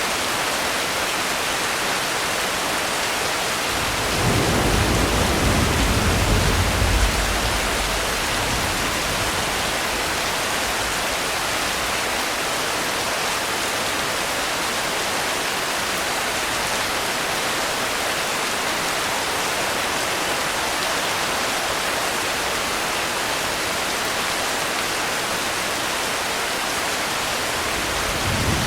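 Steady rain, with a low roll of thunder about four seconds in that lasts a few seconds, and another rumble starting right at the end.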